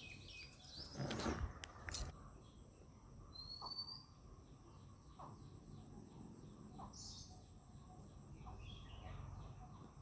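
Small birds chirping over and over, with a brief rustle about a second in and a sharp click at two seconds.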